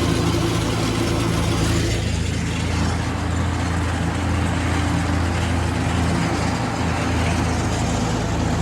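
Vintage Ford tractor's four-cylinder engine running steadily under load from a PTO-driven 7 ft finishing mower, with a broad hiss over the engine note.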